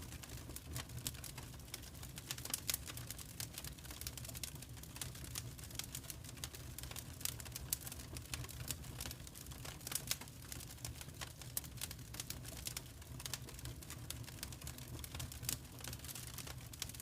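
Wood fire crackling: irregular small pops and snaps, several a second, over a steady low rumble.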